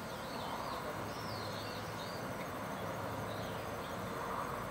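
A bird singing short warbling phrases over steady background noise.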